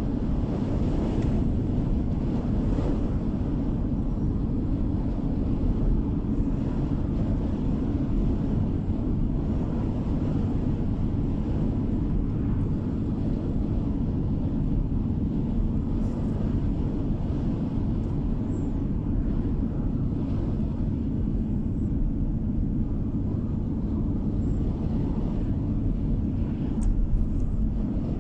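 A car driving along a road: a steady low rumble of tyres and engine heard from inside the car.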